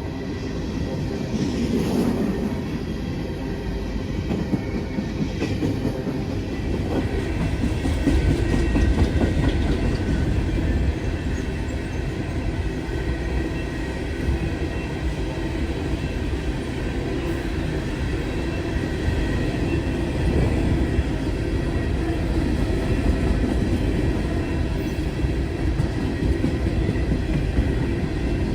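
Freight train of empty coal hopper cars rolling past, a steady heavy rumble of steel wheels on rail that holds throughout.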